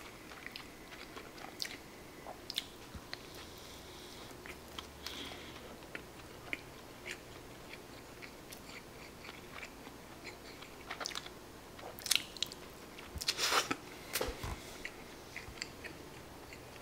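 Close-miked chewing of a nori-wrapped rice ball (onigiri), with small wet mouth clicks scattered throughout. A louder burst of noise comes about thirteen seconds in.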